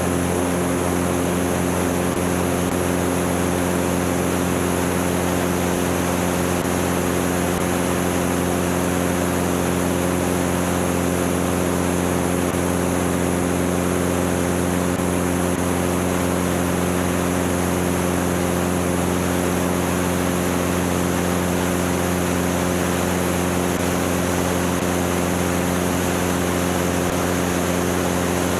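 Cessna 205's six-cylinder piston engine and propeller running steadily at an unchanging pitch, a constant drone with a wide rushing hiss over it.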